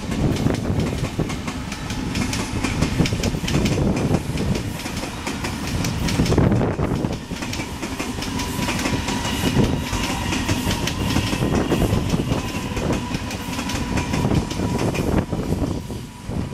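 Millennium Rake electric multiple unit suburban train running past as it accelerates, its wheels clattering rapidly over the rail joints above a heavy rumble. A steady high whine joins in about halfway through.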